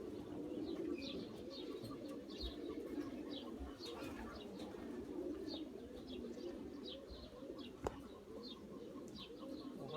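A flock of pigeons cooing continuously, with frequent short, high chirps of small birds over them. There is a single sharp click about eight seconds in.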